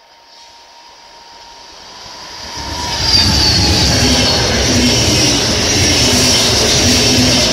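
NSB El 18 electric locomotive and its passenger coaches approaching and passing close by. A faint high whine comes first, then a swelling rumble and rush of steel wheels on the rails that turns loud about three seconds in and holds steady as the coaches go past.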